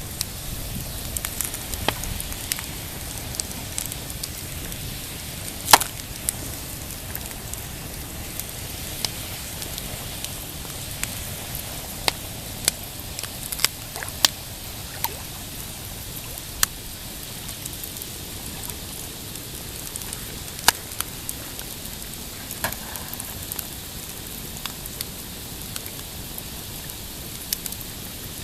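Pine campfire crackling, with irregular sharp pops and snaps, the loudest about six seconds in and again near twenty-one seconds. Under them runs a steady low wash of waves lapping on a rocky shore.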